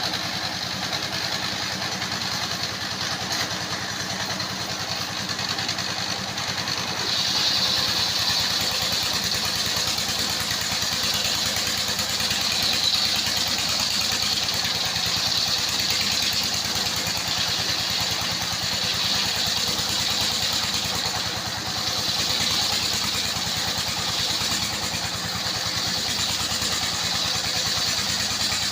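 Engine-driven circular sawmill running steadily. About seven seconds in a higher, brighter whine joins and grows louder, as the blade goes into the wood, and it keeps on cutting.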